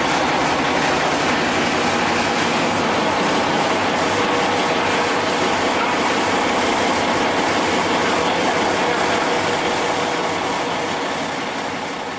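Yuchai YC6T480C six-cylinder marine diesel engine running steadily and loudly, heard close to the engine. The sound fades away near the end.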